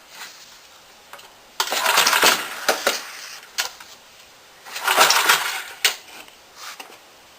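Two rasping pulls on a small engine's recoil starter, each about a second long, with clicks in between; the engine does not catch.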